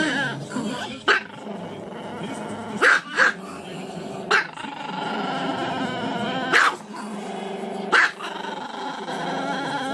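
A small dog howling, its pitch wavering, broken by sharp barks about a second in, twice around three seconds, and again near four and a half, six and a half and eight seconds.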